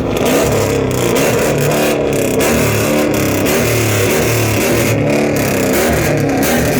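Car engine revving repeatedly, its pitch rising and falling in short blips.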